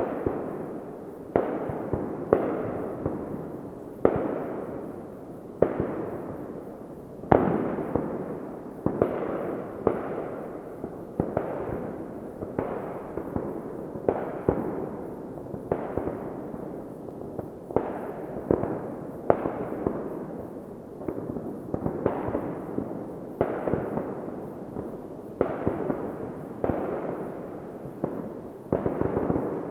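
Fireworks going off in a steady barrage: a sharp bang about every one to two seconds, each trailing off in a long rolling echo that overlaps the next.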